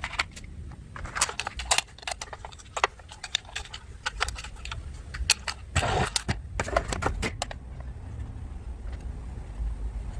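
Hard plastic toy parts clicking and clattering as they are handled, with a denser rattle about six seconds in.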